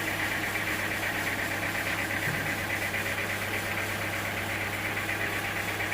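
Engine running steadily at idle, with a steady low hum and a high, rapidly pulsing buzz over it.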